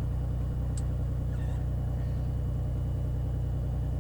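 Beechcraft Bonanza's piston engine idling steadily while holding short for takeoff, a low even drone.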